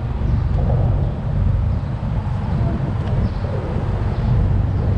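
Low, steady rumble of car engines idling and rolling, with faint voices in the background.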